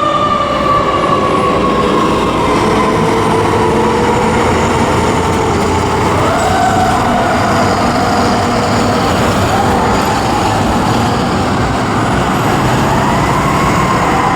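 Fire engine siren on a 2007 American LaFrance pumper. Its pitch falls slowly over the first few seconds, then rises and falls again twice over the steady noise of the truck and road.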